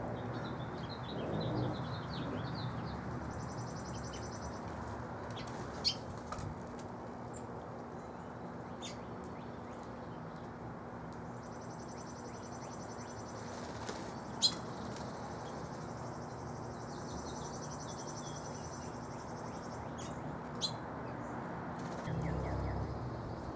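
Backyard songbirds chirping, with high buzzy trills twice and a few scattered short calls. Three brief sharp clicks stand out. A steady low rumble lies underneath.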